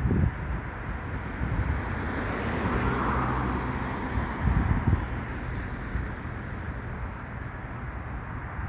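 Street traffic with a low, steady engine rumble; a vehicle passes, loudest about three seconds in.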